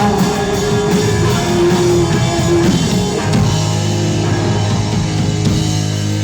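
Rock band playing live, with electric guitars and a drum kit, loud and steady.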